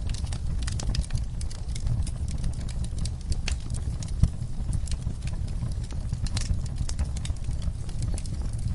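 Wood fire crackling, with irregular sharp pops and one louder pop about four seconds in, over a steady low rumble of soft rainfall.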